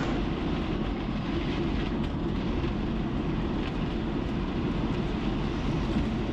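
Steady road and engine noise inside a motorhome's cab while it is being driven: an even low rumble with no sharp events.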